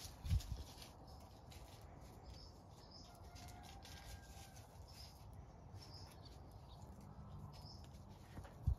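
Quiet outdoor ambience with short, high bird chirps scattered throughout. There is a dull low thump just after the start and another just before the end.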